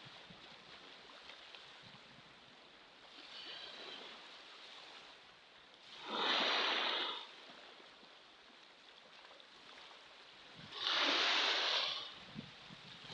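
Ocean waves washing in, a soft wash early on and then two louder surges of rushing water, each about a second long and some five seconds apart.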